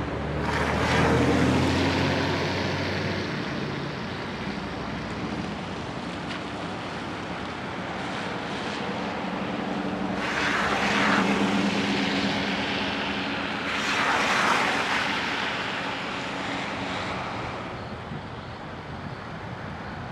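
Strong storm wind gusting with rain, surging loudly three times, about a second in, around ten seconds in and around fourteen seconds in, over a steady low engine-like hum.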